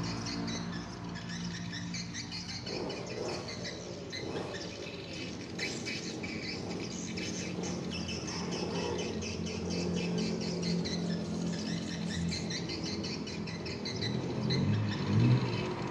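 Many swiftlets chirping and twittering rapidly and continuously, over a steady low hum.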